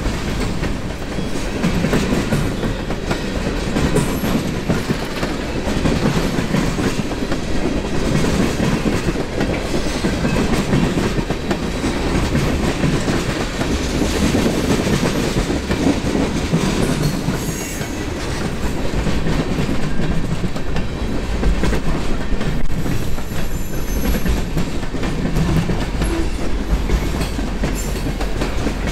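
Freight cars (covered hoppers, tank cars and refrigerated boxcars) rolling past on steel wheels, a steady rumble and clatter of wheels on rail.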